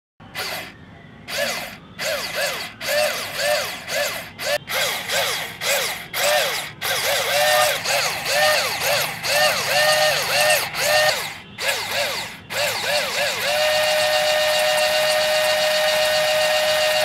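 Small brushed DC motor of a toy-scale brick machine, driving a belt and pulleys with soil in the hopper. It whines in short repeated bursts, each rising and then falling in pitch. About three-quarters of the way through it settles into a steady whine.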